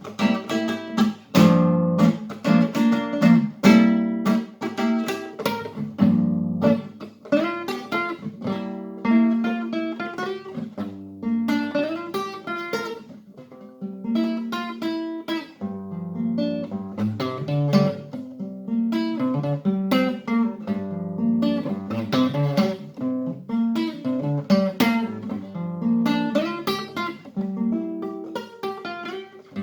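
Acoustic guitar played without singing: a run of strummed chords and picked notes with a changing melody and a quick rhythm.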